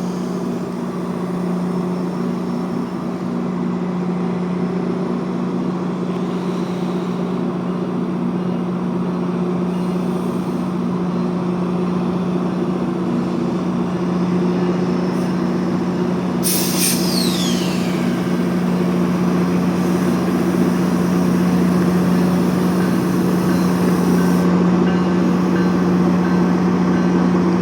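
Diesel engine of a GO Transit MP40 locomotive (a V16 EMD 710 prime mover) running with a steady low hum that grows slowly louder. About sixteen seconds in there is a short hiss with a falling whistle-like tone.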